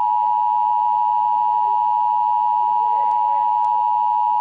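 Emergency alert attention tone: a loud, steady, unbroken electronic beep near 1 kHz, the signal that precedes a broadcast weather warning.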